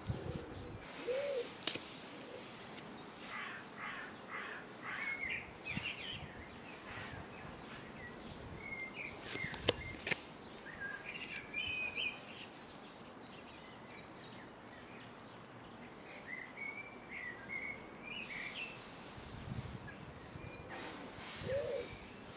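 Birds calling in short chirping phrases that come and go several times over a steady outdoor background hiss, with one sharp click about ten seconds in.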